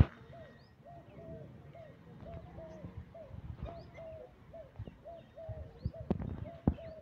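A bird repeating a short, low rise-and-fall call note over and over, about two a second, with fainter high chirps from other birds. A few low thumps come in, louder near the end.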